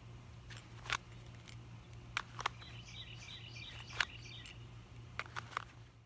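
Outdoor ambience under a steady low hum: a small bird twitters in a quick run of short high notes through the middle, and a few sharp clicks sound, three of them close together near the end.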